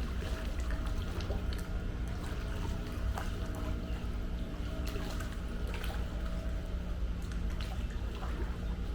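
Pool water splashing and sloshing as someone moves through it, with many small scattered splashes over a steady low hum.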